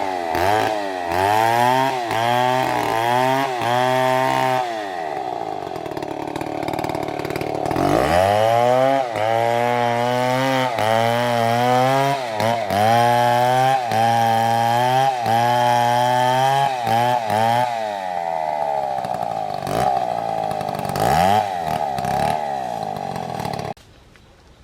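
Large two-stroke chainsaw, an MS720, running with its engine pitch rising and falling again and again as the throttle and load change. The sound cuts off suddenly near the end.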